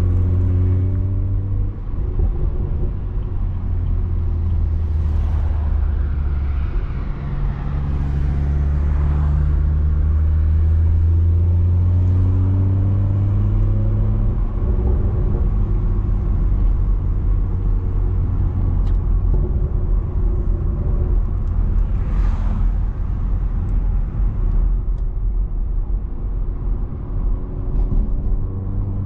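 BMW 340i's turbocharged B58 straight-six running through a straight-piped exhaust under way. The engine note climbs slowly and drops back a few times, about 2, 7 and 15 seconds in.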